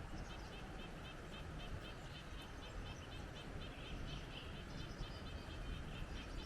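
Small birds chirping in quick, repeated high notes over wind rumbling on the microphone.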